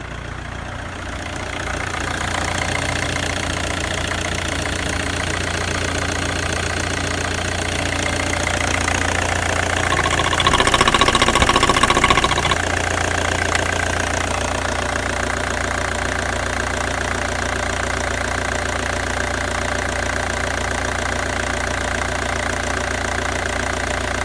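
Opel Y20DTH 2.0 four-cylinder turbodiesel engine idling, revved up briefly about ten seconds in and dropping back to a steady idle a couple of seconds later.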